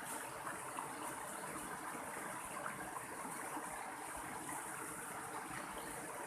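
Mountain stream water flowing steadily over rocks, with a constant rush and small splashing flickers.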